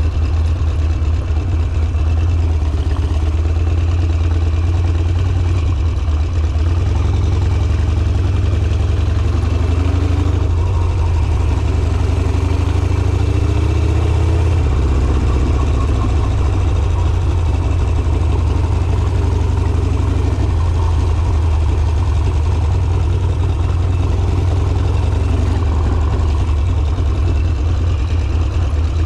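Harley-Davidson Sportster V-twin engine running at low road speed, its revs rising and falling a little around the middle as the throttle is worked.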